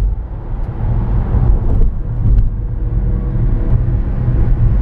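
Steady low rumble of a car moving along the road, with engine and road noise.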